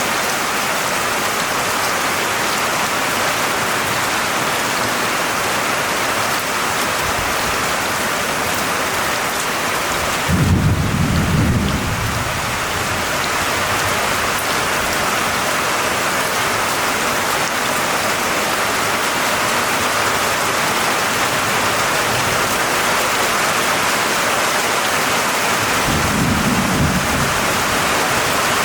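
Steady heavy rain with two low rolls of thunder: a louder rumble about ten seconds in, lasting a couple of seconds, and a softer one near the end.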